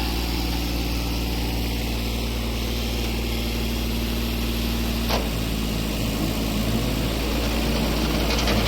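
Kubota compact tractor's diesel engine running steadily, with the PTO engaged. About five seconds in there is a short click, and the engine note changes after it.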